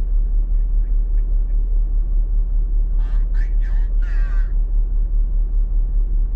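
Diesel engine idling: a steady low rumble with an even pulse. Brief muffled talk about three to four and a half seconds in.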